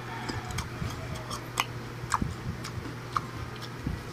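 Crisp raw jicama being chewed close to the microphone: irregular sharp clicks, about one or two a second, over a steady low hum.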